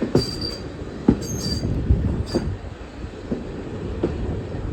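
Passenger train running slowly on a curve, with a steady low rumble from the carriage, sharp knocks from the wheels over the track, and short high-pitched squeals from the wheel flanges a few times in the first half.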